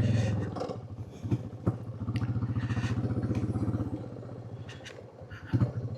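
Royal Enfield motorcycle engine running at low road speed. It eases off, pulls a little harder for a couple of seconds, then eases off again. Two sharp clicks come a second and a half in.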